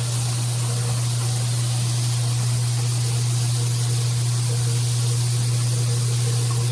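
Filtered shower head spraying water: a steady hiss with a constant low hum beneath it.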